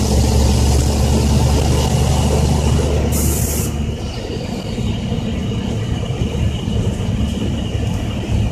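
Dump truck's Caterpillar C10 inline-six diesel engine pulling under load, heard from inside the cab. About four seconds in the engine note drops away, leaving mainly road rumble and rattling from the loaded truck. There is a brief hiss just before the drop.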